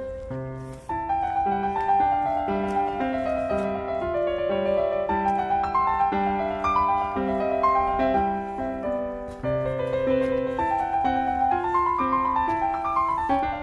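Background piano music: a steady flow of piano notes with no speech.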